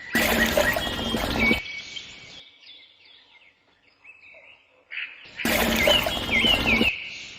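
Birds chirping outdoors, interrupted twice by a loud burst of noise about a second and a half long, once at the start and again about five seconds in.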